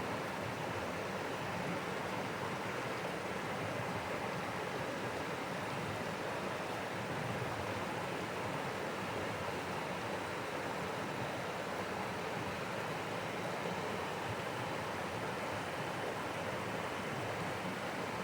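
A rocky mountain creek cascading over rocks: a steady, even rush of water with no breaks.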